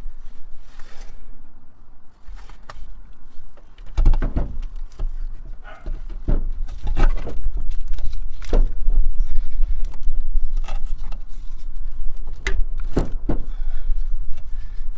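Heavy steering box being manhandled up into place under the vehicle: a run of sharp metal knocks and clunks over a low rumble that sets in about four seconds in.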